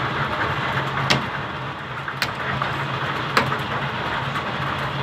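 Heavy hail and rain pouring down in a steady hiss, with three sharp cracks of hailstones striking a hard surface. The hail is large, bigger than quail eggs.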